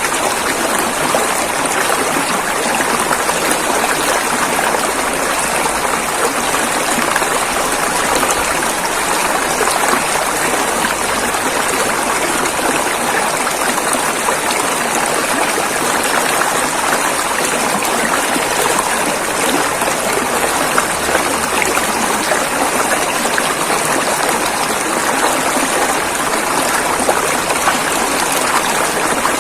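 River water rushing and splashing in a steady, loud stream with no breaks.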